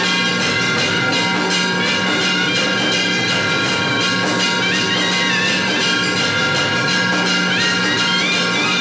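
Temple aarti music: drums and clanging bells or cymbals beat a fast, continuous rhythm under sustained, wavering instrumental tones.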